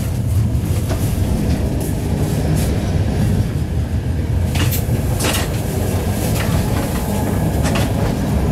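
Rumble of a moving passenger train heard from inside the carriage, steady and heavy in the low end, with a few sharp clicks of the wheels over the track scattered through it.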